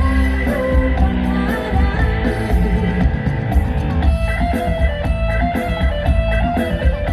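Live luk thung band playing an instrumental passage: electric guitar lines over heavy bass and a steady drum beat, loud through the PA.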